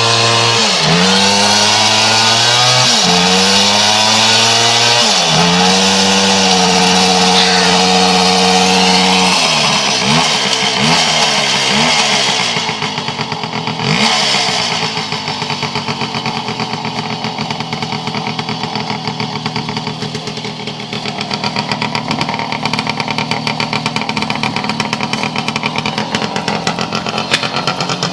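Voskhod two-stroke single-cylinder motorcycle engine, not yet warmed up, revved up and down several times in short blips with one longer hold. About ten seconds in it drops back to a lower, uneven, pulsing idle.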